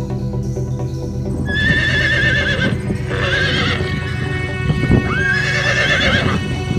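A horse whinnying three times, each a wavering high call about a second long, the first about a second and a half in, over steady background music.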